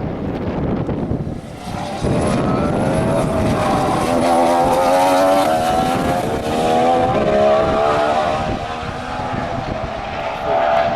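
A 2014 Formula One car's 1.6-litre turbocharged V6 hybrid engine running at speed on track. Its note gets louder and climbs in pitch about two seconds in, then holds a high, wavering drone before easing near the end.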